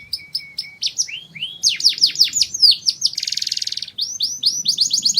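Domestic canary singing a varied song. Quick repeated notes lead into a run of rapid falling whistled sweeps. A short buzzy trill comes past the middle, and a fast string of rising notes follows near the end.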